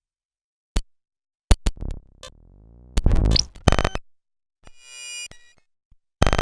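A string of short synthetic sound effects after a moment of silence: a click, sharp hits, a low sweeping whoosh, loud noisy impacts, a buzzing electronic tone that swells and fades in the middle, and another hit near the end.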